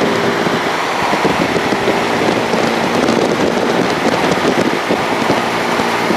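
Motorcycle engines running steadily, a loud, even mechanical noise with a faint low hum.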